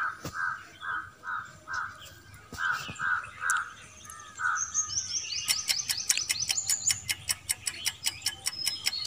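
Birds calling: a run of caw-like calls about three a second, then from about five seconds in higher chirps over a fast, even ticking.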